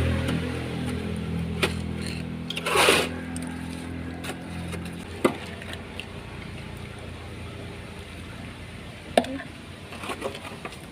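An engine running steadily, then fading out about five seconds in, with a few sharp knocks and a short scrape.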